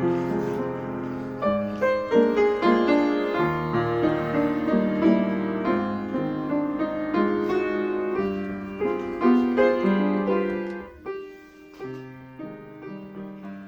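Piano music playing a flowing melody with chords, growing noticeably softer about eleven seconds in.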